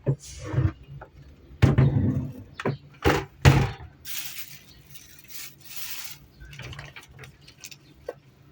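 A string of knocks and thuds, the loudest about three and a half seconds in, followed by a few seconds of rustling and some small clicks near the end.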